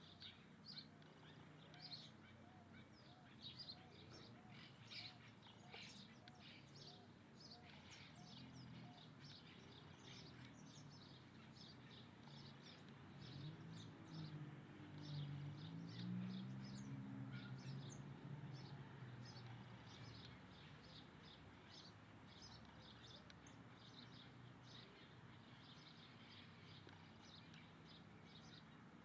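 Wild birds calling faintly: many short, high chirps in quick succession, with a softer series of evenly repeated lower notes in the first several seconds. A low hum swells and fades midway.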